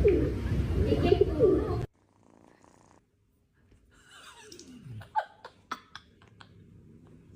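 Loud, repeated low calls for about two seconds that cut off abruptly; after that it is quiet, apart from one falling call and a few sharp clicks.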